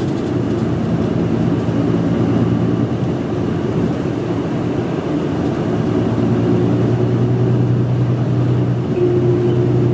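Route bus engine drone and road noise heard from inside the cabin, a steady hum whose pitch shifts a few times as the bus drives.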